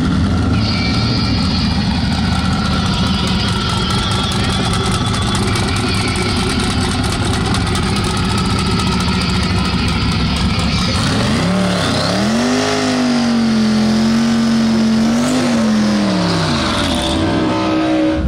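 Twin-turbo V8 of a C5 Corvette drag car rolling at low revs. About eleven seconds in it revs up and holds high revs, wavering, for about five seconds, then drops back: a burnout at the starting line.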